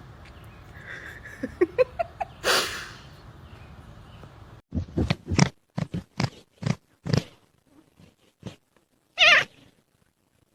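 A cat calling: about halfway in, a quick run of short loud calls, then one longer wavering, quavering call near the end.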